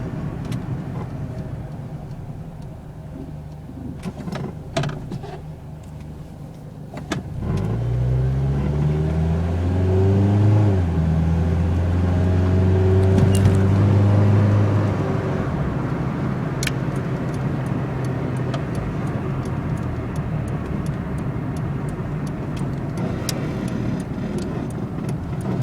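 Four-cylinder engine of a 1992 Honda Civic LX, its pitch rising from about eight seconds in, then held steady for several seconds before settling to a lower, steady run. Scattered sharp clicks sound over it throughout.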